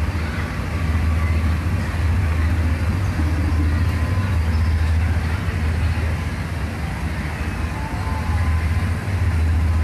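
Steady low motor hum, with faint voices in the background.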